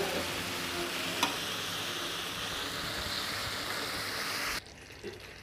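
Elephant apple pickle sizzling in hot mustard oil and sugar syrup in a pan as it is stirred with a metal spatula and cooked down until dry, with one click about a second in. The sizzling cuts off suddenly near the end.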